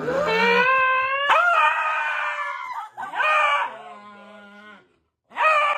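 A dog howling in long drawn-out notes, the first rising in pitch, several howls in a row with a short break near the end.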